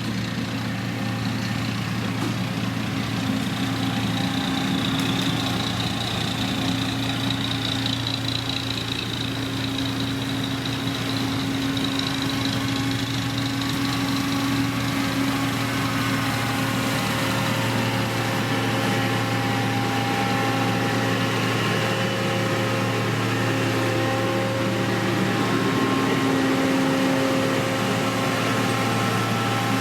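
Diesel engine of heavy road-construction machinery running steadily at a constant speed, a low engine drone with a few steady higher tones over it.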